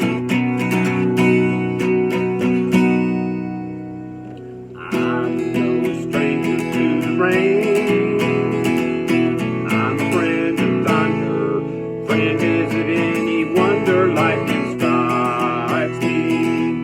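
Acoustic guitar strummed in an instrumental break of a country ballad. A chord is left to ring and fades about three seconds in, then the strumming starts again.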